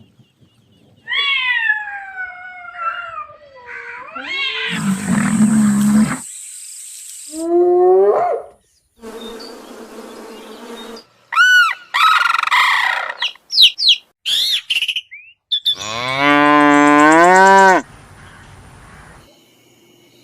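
A string of different animal calls spliced one after another, each cut off abruptly: high wavering cries, short chirps and whistles, and near the end a long low call that rises slightly in pitch.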